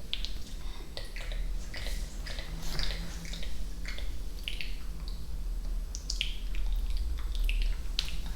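ASMR mouth sounds close to the microphone: irregular wet clicks and pops.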